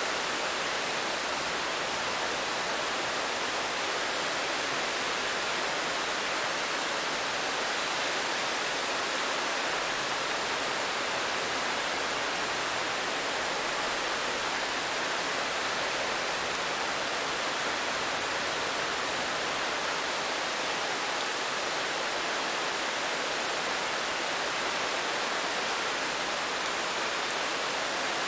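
Steady rain, an even hiss without any single drop, thunder or other event standing out.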